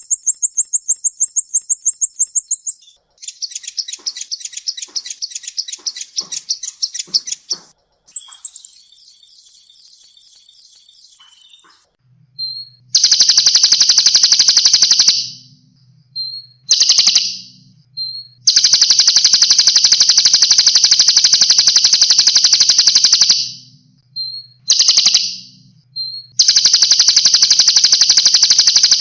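Cage songbirds singing rapid-fire tutor song ('masteran'): a string of spliced clips of fast, tightly repeated high notes. The runs change abruptly about 3, 8 and 12 seconds in, and the later runs are long and dense with short breaks between them and a faint low hum underneath.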